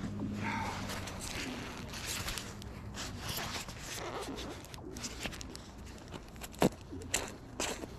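Irregular scraping and rustling handling noises with scattered clicks, one sharp click about two-thirds of the way through.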